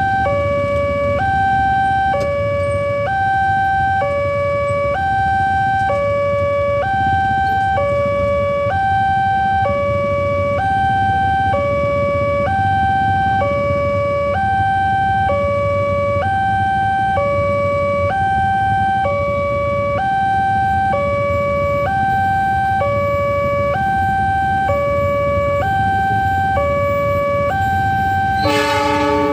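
Railway level-crossing warning alarm sounding continuously, two electronic tones alternating high and low about once a second each, over a steady low rumble. Near the end a brief horn blast cuts in.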